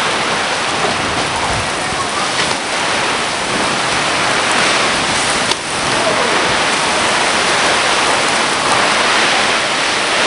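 Hard, heavy rain pouring down in a thunderstorm, a steady, loud hiss, with a single sharp click about halfway through.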